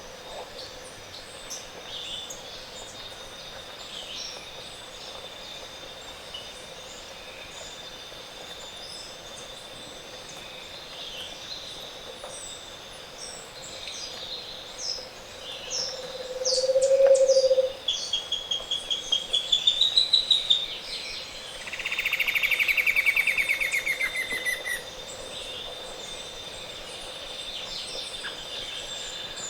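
Morning chorus of several tropical forest birds, scattered calls and chirps over a steady high-pitched whine. Past the middle it grows louder: a short low hoot, then a fast series of notes rising in pitch, then a rapid trill falling in pitch.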